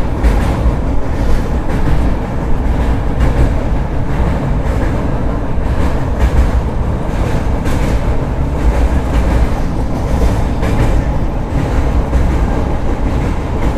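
Express passenger train running at speed: a loud, steady rumble of the coaches, with wheels clacking over the rail joints now and then.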